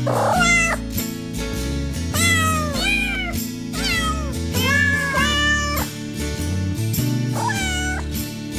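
Week-old kittens mewing over and over, thin high cries that each rise and fall in pitch, with background music underneath.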